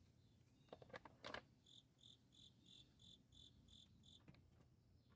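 Faint computer mouse clicks, then a run of eight short, evenly spaced high-pitched chirps, about three a second.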